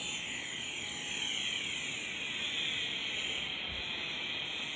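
Small electric remote-control helicopter in flight, its motor and rotors giving a high, steady whine that drifts in pitch.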